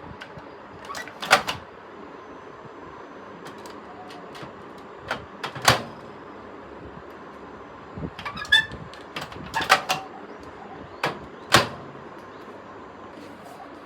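A series of sharp knocks and clicks, about seven, scattered over a steady background hiss, some coming in close pairs.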